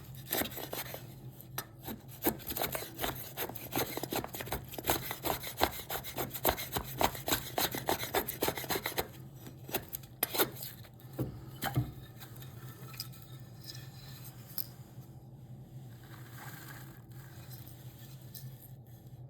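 Hand tool scraping and rubbing on cherry wood in quick repeated strokes, thinning out about halfway through and stopping a few seconds before the end. A low steady hum runs underneath.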